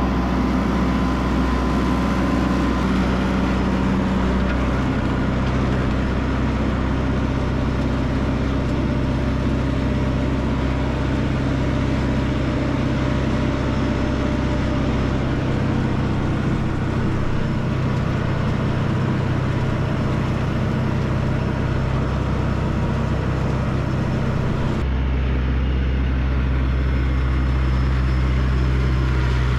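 Tractor engine running steadily at an even speed. The balance of its low hum changes about five seconds in and again about 25 seconds in.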